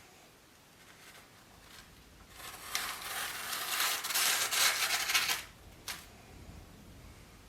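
A rough scraping, rustling noise lasting about three seconds, then a single short click.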